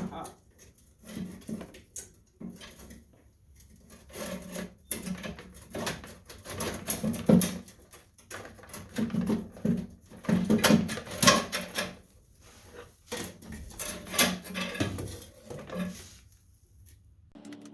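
Hand tools at work on engine fasteners: irregular clusters of short metallic clicks and knocks, busiest in the middle stretch.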